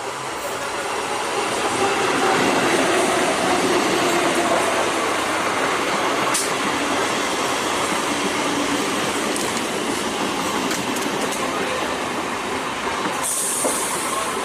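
Electric multiple unit local train running on the track, a steady noise of wheels and carriages that builds over the first two seconds. A sharp click comes about six seconds in, and a short burst of hiss comes near the end.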